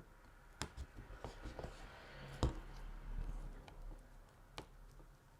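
Light handling sounds of hand embroidery: soft rustling of wool and fabric with a few sharp clicks, the loudest about halfway through, as the needle and crewel wool are worked through the fabric.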